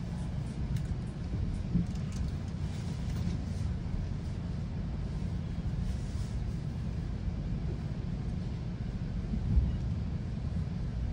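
GO Transit commuter train rolling along the track, heard from inside the coach: a steady low rumble of wheels on rail, with two brief knocks, one about two seconds in and one near the end.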